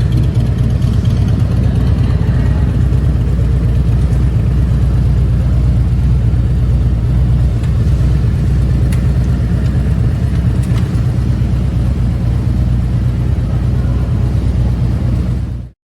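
Harley-Davidson FLHTK Ultra Limited's V-twin engine idling steadily; the sound cuts off suddenly near the end.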